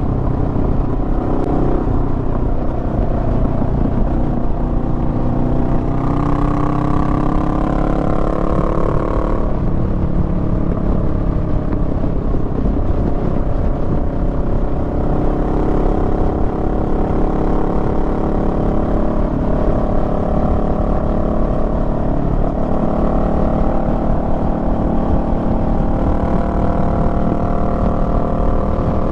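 Honda Rebel 500's parallel-twin engine running under way, its pitch climbing for a few seconds about six seconds in and then dropping suddenly, as with a gear change or the throttle closing. Wind and road noise run under it.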